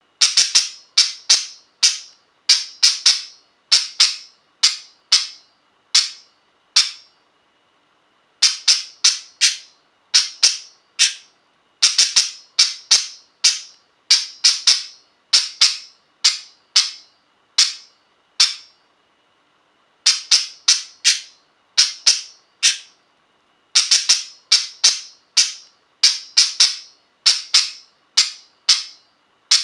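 Budgie repeating a short, sharp, high call about twice a second in runs of several, with brief pauses between runs. It is the insistent call the bird makes when it wants something.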